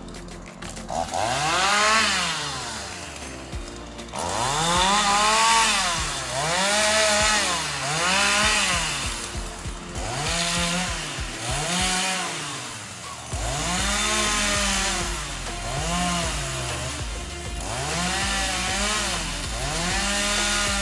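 Two-stroke chainsaw revved up and down over and over, its pitch rising and falling about once every second and a half.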